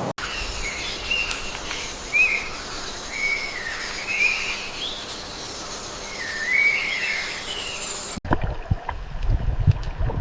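Birds calling in wavering, whistled phrases over a steady high hiss. About eight seconds in the sound cuts suddenly to running water with low knocks and splashes.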